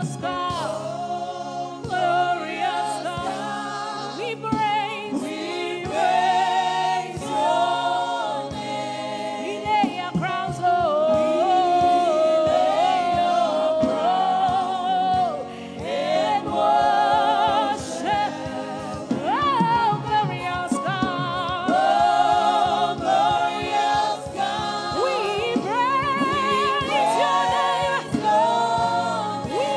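Gospel worship singing: several voices holding long notes with vibrato over steady backing music.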